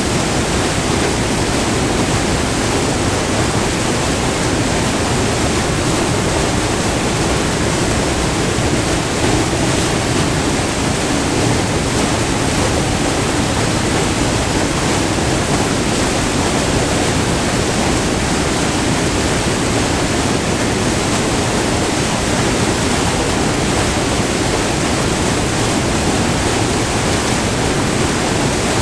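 Close-up white water of a small multi-tiered river waterfall rushing steadily over rock: a loud, unbroken roar of water.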